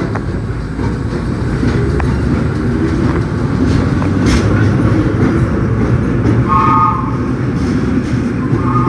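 Subway train running on the rails with a steady rumble and scattered wheel clicks. Its horn sounds briefly about six and a half seconds in, then again near the end.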